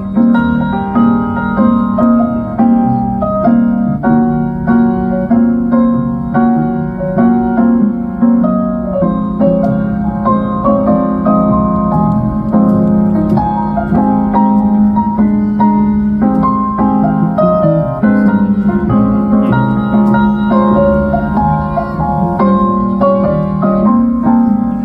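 Live jazz piano solo over bass accompaniment, with many quick changing notes and no singing.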